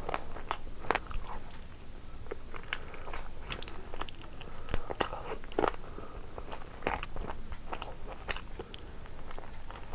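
Close-up eating sounds: a person biting and chewing crunchy fried food, with many irregular crunches and crackles.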